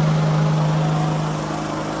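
Vehicle engine running at a steady speed, a constant drone with no revving.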